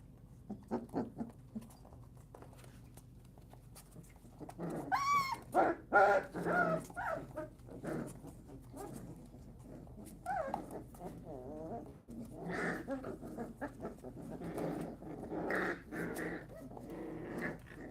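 Puppies growling, yapping and yelping as they play-fight, with a high yelp about five seconds in and a busy flurry of growls from about twelve seconds on.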